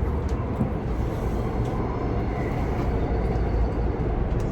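Steady low rumble of a moving express train heard from inside the passenger car.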